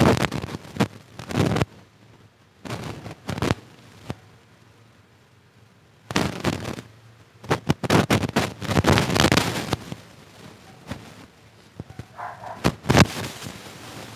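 Close-up chewing of crispy fried street food: loud crunches in clusters, about five bouts with short pauses between.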